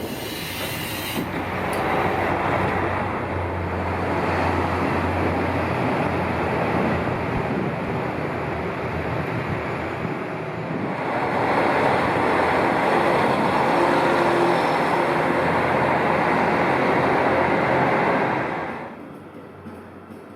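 A train running with a steady rumbling noise. It grows louder about halfway through and drops away sharply near the end.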